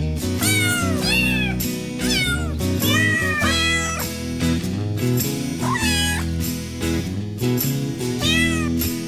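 Week-old kittens mewing again and again in short, high, arching calls over background music.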